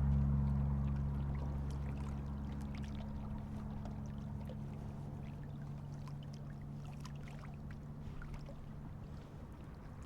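A distant motor's low, steady drone that fades away gradually, with faint light clicks of handling close by.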